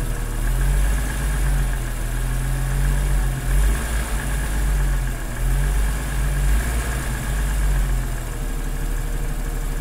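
1997 Jeep Cherokee XJ engine idling steadily at full operating temperature, with the cold-engine piston slap almost gone, at most a little left.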